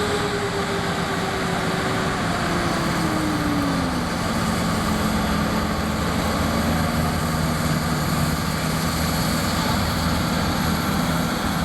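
Unlimited-class New Holland farm tractor's engine running hard under full load while dragging a weight-transfer sled down the pulling track. It is loud and steady, and its pitch drops about three seconds in, then holds lower as the load builds.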